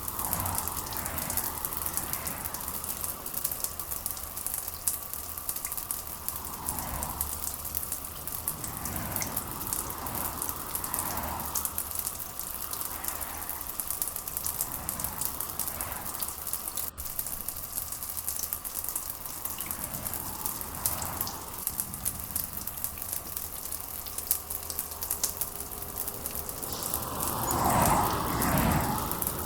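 Steady rain with a dense patter of drops. It swells softly every few seconds, and the biggest swell comes near the end.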